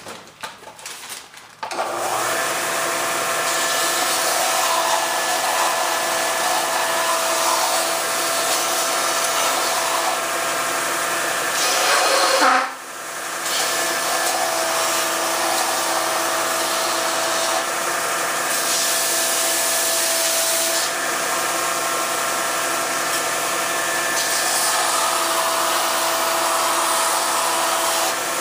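An electric sander starts up about two seconds in and runs steadily, a wooden bulkhead being sanded against it, the rasping coming and going as the piece is pressed on. About twelve seconds in it briefly gets louder, then dips and picks back up.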